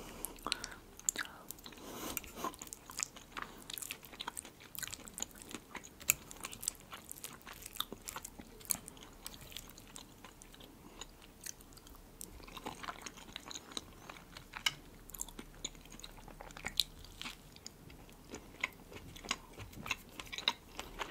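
Close-miked chewing of soft salad, herring under a fur coat: wet, irregular mouth clicks and smacks, quiet between bites.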